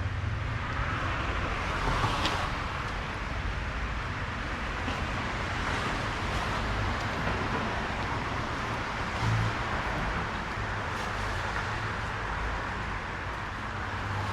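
Street traffic on wet roads: steady tyre hiss over a low engine rumble, swelling as a car passes about two seconds in, with a short low thud about nine seconds in.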